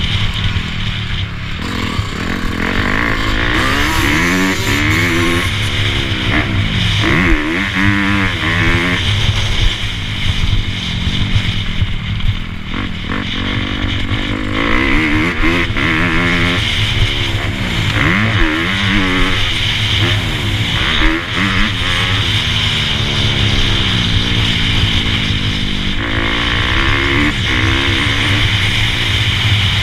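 Dirt bike engine being ridden, revving up and down over and over, its pitch rising and falling every second or two.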